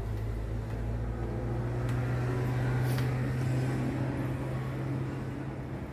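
A steady low mechanical hum with a few faint clicks, fading near the end.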